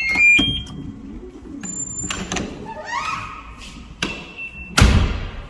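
Short electronic beeps and a brief rising chime, then a door shutting with a loud thud near the end.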